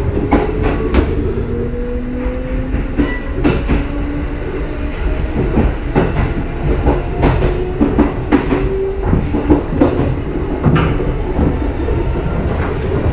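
Kintetsu 1620-series and 2410-series electric multiple unit train running through the station. A faint motor whine rises slowly in pitch early on, and wheels clack repeatedly over rail joints.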